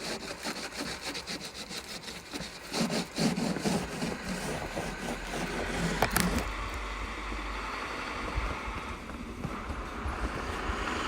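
Icy snow being scraped and rubbed off a car's surface in quick repeated strokes, where the snow has frozen to ice. The strokes give way to a steadier rubbing after about six seconds.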